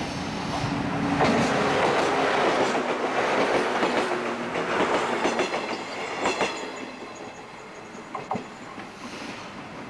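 A train passing at speed, its wheels clacking over the rail joints; it grows loud about a second in and fades away after about six seconds.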